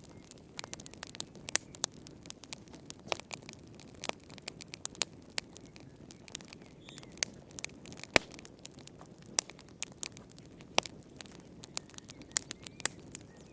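Wood fire in a fireplace crackling: irregular sharp pops and snaps over a soft low rush of burning.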